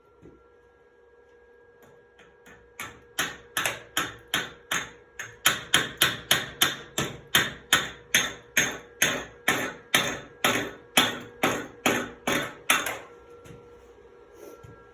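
Chipping hammer striking a fresh 6011 stick weld to knock off its hard slag: a steady run of about two dozen sharp, ringing metal-on-metal blows, a little under three a second, stopping about two seconds before the end.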